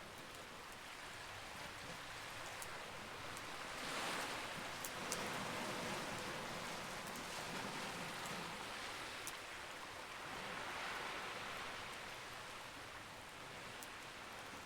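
Campfire crackling with a few sharp pops, over a steady wash of ocean waves that swells twice.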